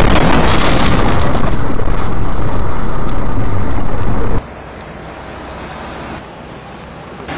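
Dashcam audio of a car on the road: loud, distorted rumble and rushing noise with no clear single event, cutting off sharply about four seconds in to a quieter, duller vehicle noise with a steady low hum from another dashcam.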